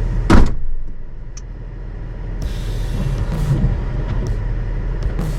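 Toyota FJ Cruiser's 4.0-litre V6 running low and steady while crawling a rocky trail, with one loud knock about half a second in and several short scraping noises later.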